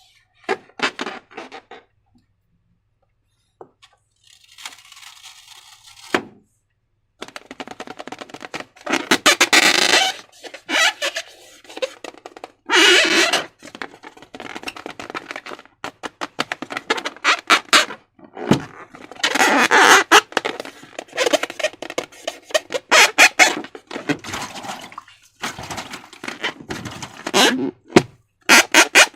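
Slime being squeezed, stretched and poked by hand: bursts of wet, sticky clicks and squelches, broken by a silent pause of about two seconds near the start.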